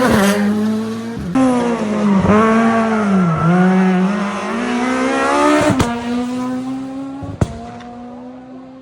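Rally car engine revving hard, its pitch dropping and climbing again twice as the throttle and gears change. Three sharp cracks ring out, the loudest near the end, and the engine fades as the car pulls away.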